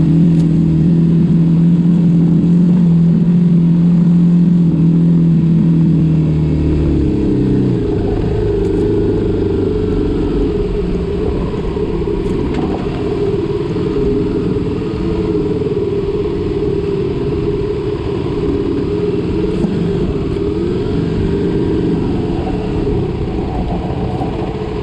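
Vehicle engine holding a steady speed for about seven seconds, then easing off into rougher, uneven engine and road noise.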